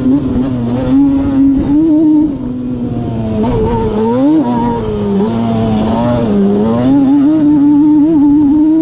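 Yamaha Banshee 350's two-stroke parallel-twin engine, big-bored with a Cheetah 426 kit, running hard under riding. Its pitch rises and falls with the throttle, dipping about halfway through and climbing back near the end.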